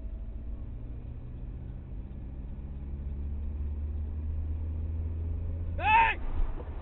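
Steady low rumble of a vehicle driving, heard from inside, growing slightly louder. About six seconds in comes a short high-pitched sound that rises and falls in pitch.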